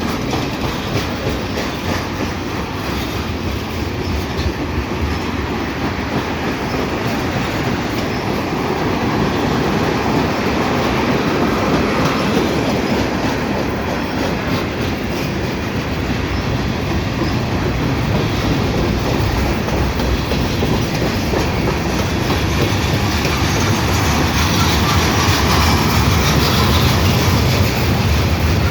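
Freight cars of a long freight train rolling past: steel wheels rumbling and clicking over the rail joints, growing a little louder near the end.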